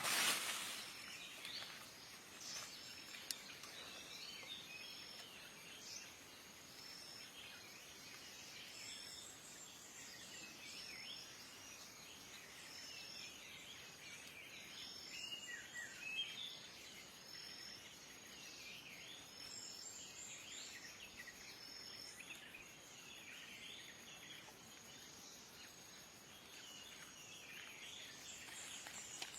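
Faint wild bird chorus: many short chirps and calls, with one short high note repeating about every two seconds over a steady high insect hum.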